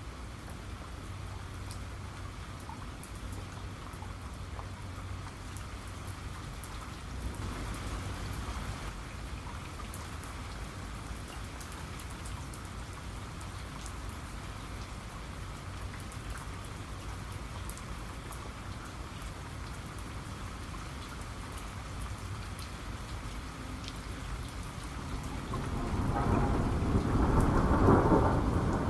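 Steady rain with scattered drops tapping, and thunder: a faint low rumble about a quarter of the way in, then a louder thunder roll building near the end.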